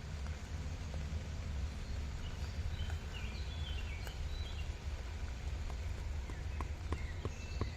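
Outdoor ambience: a steady low rumble, a few short high chirps around the middle, and a run of sharp knocks or taps starting near the end.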